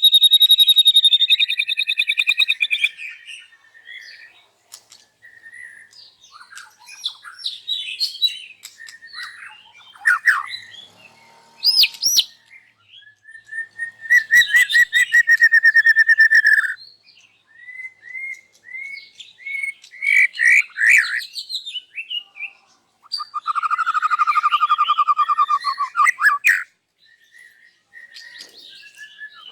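White-rumped shama (murai batu) singing loudly in varied phrases with short pauses: clear whistles, quick sweeps and several long buzzing trills. It is showing off its repertoire of learned songs and imitated calls.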